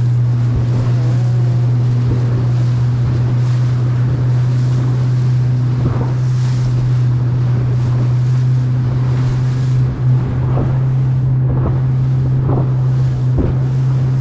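A boat's engine running at a steady low drone while underway, with wind buffeting the microphone. A few sharp knocks come in the second half.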